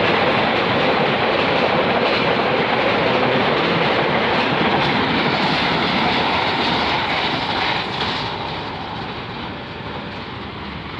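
Madiun Jaya passenger train rolling past, a loud steady rush of wheels on the rails that eases off about eight seconds in and dies down as the train moves away.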